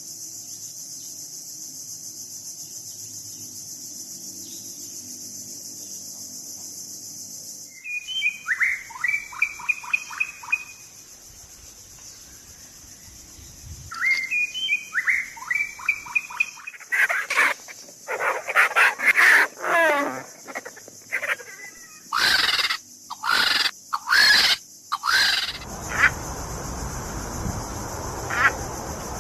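Bird calls: two short runs of quick repeated chirps, then a louder stretch of varied calls, over a steady high hiss.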